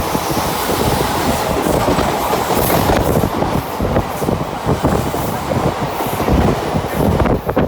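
Mumbai local electric train running at speed, heard from on board: a steady rumble and rush with wheels clattering irregularly over rail joints.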